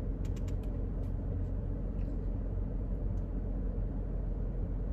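Steady low hum of a parked car's running engine heard inside the cabin, with a few faint clicks in the first second.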